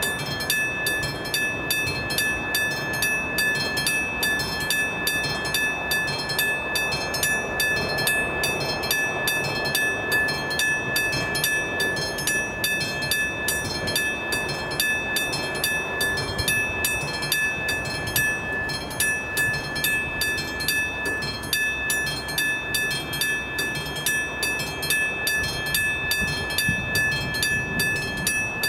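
Czech level-crossing warning bell on AŽD 71 crossing signals ringing continuously in quick, even strokes, about four a second, with a steady high tone, over a low rumbling noise.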